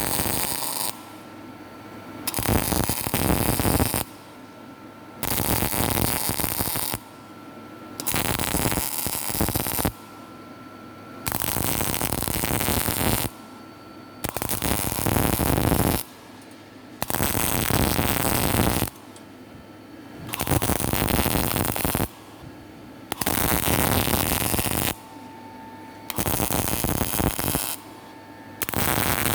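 Electric arc welding: about ten bursts of crackling arc, each lasting a second and a half to two seconds, with short pauses between them as the weld is laid in short runs.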